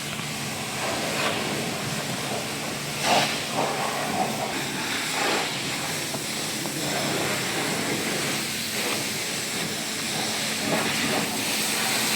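Water spray from a car-wash pressure washer: a steady hiss with a brief louder surge about three seconds in.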